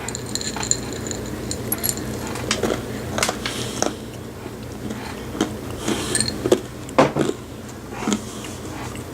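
A person chewing dry dog food kibble, with irregular crunches and clicks.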